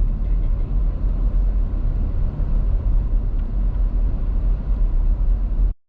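Car driving, a steady low rumble of engine and tyre noise on the road, which stops abruptly near the end.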